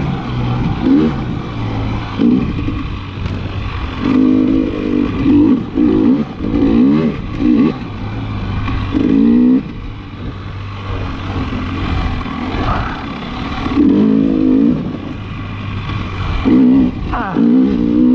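KTM 300 XC-W TPI's single-cylinder two-stroke engine running under load, revving up and down in repeated bursts as the dirt bike is ridden through deep sand.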